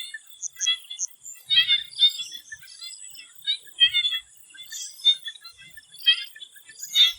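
Swamp frogs calling in a chorus: short, high bursts of calls coming one or two a second, overlapping now and then, over a steady high-pitched whine.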